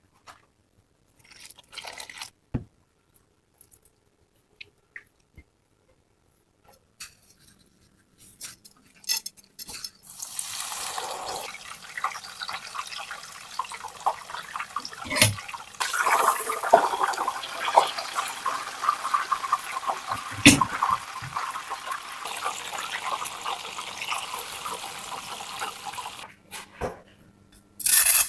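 Chicken frying in hot oil: a dense, crackling sizzle starts about a third of the way in and runs on until near the end, with a couple of sharp knocks in the middle. Before it, only a few light clicks of handling.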